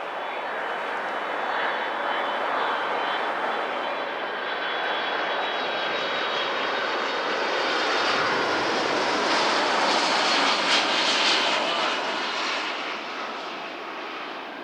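Airliner's jet engines as a plane passes: a steady rushing roar with high whining tones that swells to its loudest about ten to eleven seconds in, then eases off.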